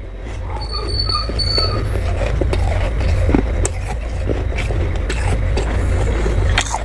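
Crunching of humidifier-built freezer frost, a dense run of irregular crisp crackles and crunches, over a steady low hum.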